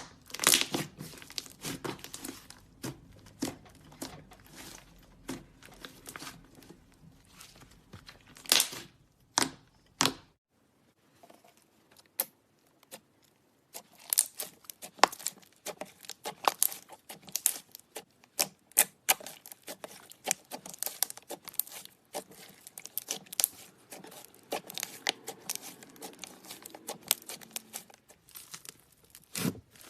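Clay slime being squished, stretched and pulled apart by hand: irregular sticky crackles, pops and tearing sounds, with a quiet lull of a few seconds about ten seconds in.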